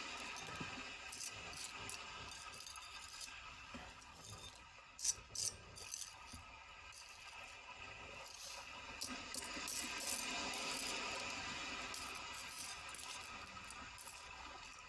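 Sea waves washing in and out, rising and falling in level, with scattered light clinks and rattles of small hard objects being handled and two sharp clicks about five seconds in.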